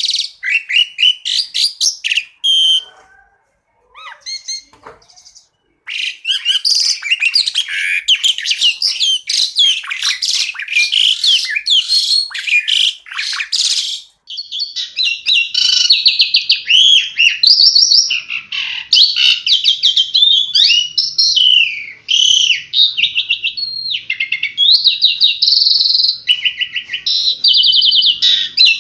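Asian pied starling (jalak suren) singing a fast, varied song of whistled notes, chattering trills and rapid repeated chirps. It breaks off briefly about three seconds in, with only a few scattered notes, and resumes at about six seconds.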